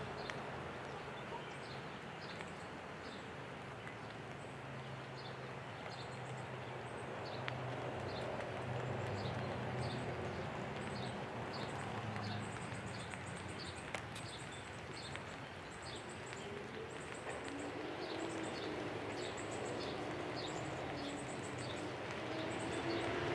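Birds singing outdoors: repeated short high chirps, one or two a second, with brief high trills in between. Under them runs a steady low hum, and a low drone with shifting pitch comes in over the last several seconds.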